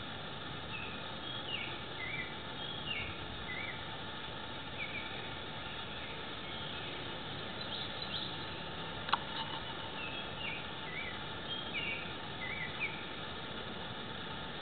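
A small bird singing runs of short, falling chirps, two runs of them, over a steady outdoor hiss; one sharp click about nine seconds in.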